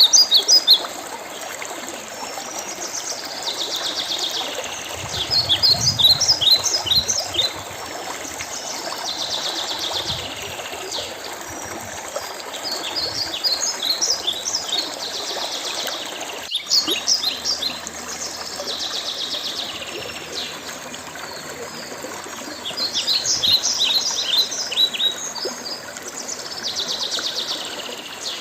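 Songbirds singing in bursts of quick high chirping notes, a phrase every several seconds, with buzzy trills between them. Underneath is a steady hiss of running water from a stream.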